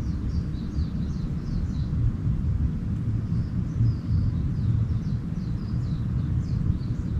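Small birds twittering in quick runs of short, high, falling chirps, about two seconds at the start and again from about three seconds in, over a steady low rumble that is the loudest sound.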